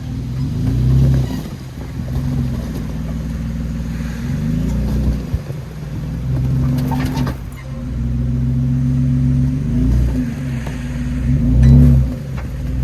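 Jeep engine revving up and down repeatedly as it works over rough avalanche debris, with a few sharp knocks, the loudest about seven seconds in.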